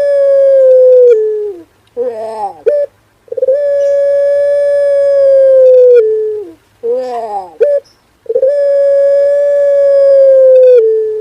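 Male puter pelung dove cooing loudly: long held coos at a steady pitch that drop at the end, alternating with short coos that fall quickly in pitch, in a regular repeating pattern.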